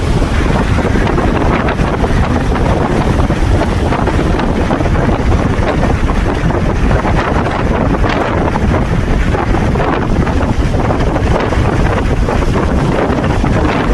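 Blizzard wind blowing hard across the microphone: a loud, steady rush with heavy low buffeting.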